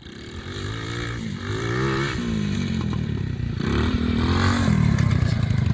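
RC quad bike's motor revving up and down as it is driven over rough ground, its pitch rising and falling repeatedly and getting louder toward the end.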